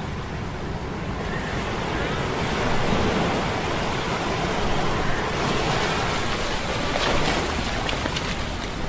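Stormy sea sound effect: waves surging and wind rushing, swelling about a third of the way in and again near the end, with a faint, wavering metallic hum from machine gears underneath.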